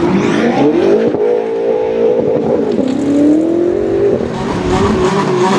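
Sports car engine accelerating: the revs climb, drop sharply at a gear change just before three seconds in, climb again, then ease off.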